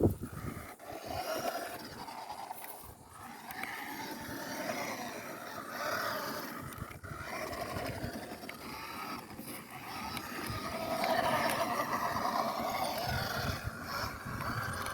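Small electric motor and gears of a cheap toy-grade RC car whining, rising and falling in pitch with the throttle as it drives over rough ground. Its tyres scrape the ground. The car struggles for grip, which the driver puts down to its lack of a locking differential.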